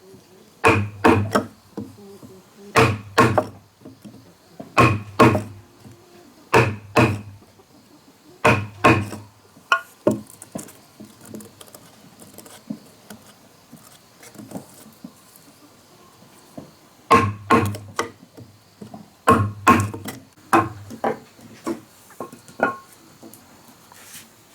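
Hand tool striking wood again and again, in quick pairs or triples of heavy blows about every two seconds. Each blow has a short ring. The blows stop for several seconds in the middle and then start again.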